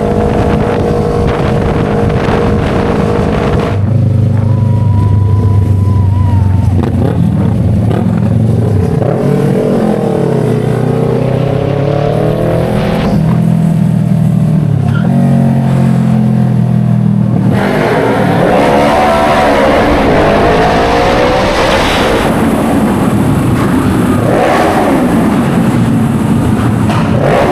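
Motorcycle engines running close by, revving up and down as they ride. The sound changes abruptly about four seconds in and again about seventeen seconds in.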